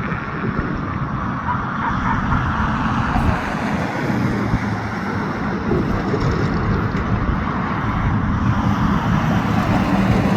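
Diesel locomotive engines running with a steady low rumble, growing a little louder as the locomotives move off.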